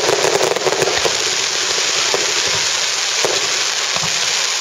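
Fireworks crackling densely and without a break, with scattered sharper pops and bangs among the crackle.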